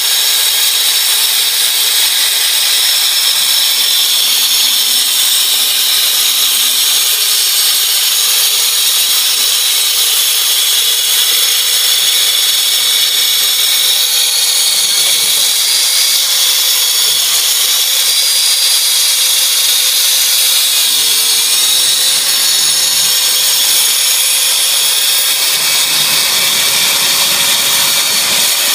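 Power saw cutting through travertine, a loud, steady, high-pitched grinding that holds without a break, with dust-collection vacuums running alongside.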